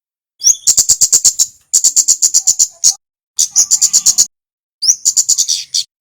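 Male kemade (kemlade merah) bird singing four rapid chattering phrases of sharp, high ticking notes, each opened by a short rising note. The phrases come about a second apart with brief gaps between them.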